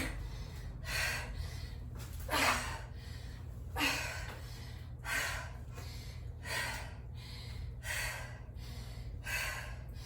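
A woman breathing hard from exertion, with short forceful breaths roughly every second and a half over a steady low hum.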